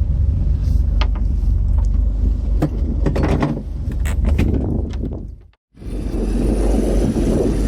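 A fishing boat's engine rumbling steadily, with wind on the microphone and a few sharp knocks in the first half. The sound cuts out completely for a moment just past halfway, then the rumble comes back.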